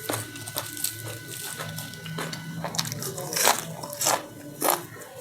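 Close-up biting and chewing of fresh raw gotu kola leaves: a run of crisp, wet crunches, the loudest three coming in the second half.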